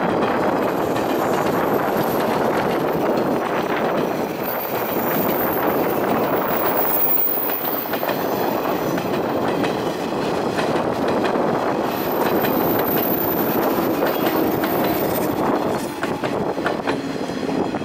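JR 185 series electric multiple unit running past at close range: a steady rumble of wheels on rail with clickety-clack over the rail joints, and sharper clicks near the end.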